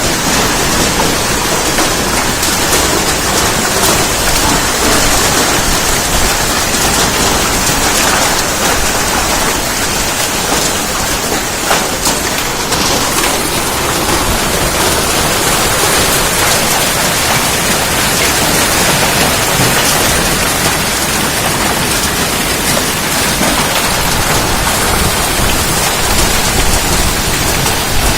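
Heavy rain mixed with hailstones pelting down: a loud, steady rush of falling water with scattered sharp ticks of hail strikes.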